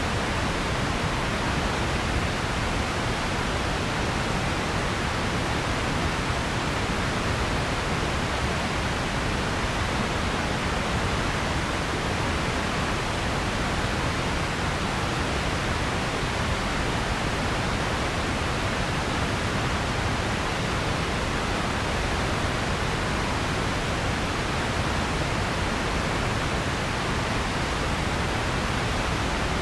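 Steady hiss of even, unchanging noise, like pink noise, with no events or changes in it.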